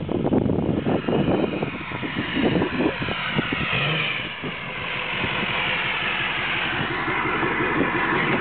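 Straight-piped Ford F-350 Super Duty exhaust running and revving, with rapid loud pulses in the first few seconds. It then settles into a steadier drone with a high whine rising and falling over it.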